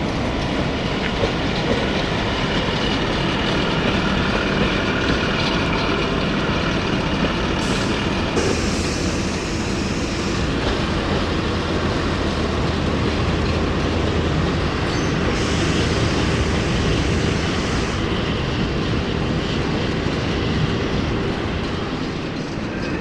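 A train running by on the rails: a steady, loud rumble of engine and wheels, with a low hum holding through the middle few seconds.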